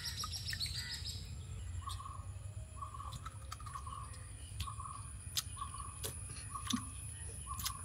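Faint outdoor ambience. A bird repeats a short call about once or twice a second, there are a few quick high chirps early on, and a steady high insect whine sits underneath. A few sharp clicks are scattered through it.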